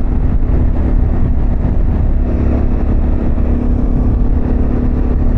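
Harley-Davidson Pan America's V-twin engine with a Vance & Hines exhaust running at a steady cruise, its note holding one pitch under a heavy low rumble.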